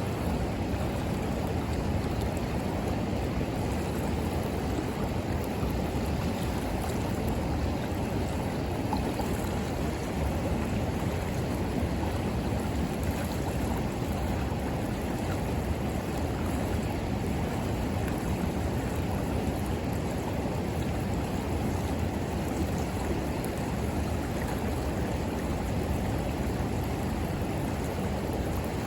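River water flowing steadily, a constant rushing sound.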